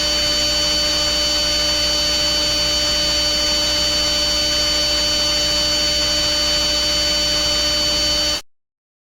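A loud, steady electronic hum and hiss with several fixed whining tones layered over a low buzz, unchanging throughout, cutting off abruptly near the end.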